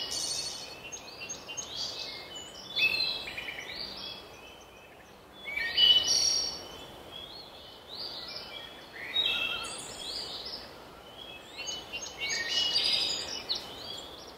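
Small songbirds chirping and twittering, a busy run of short high notes and trills, loudest about six seconds in.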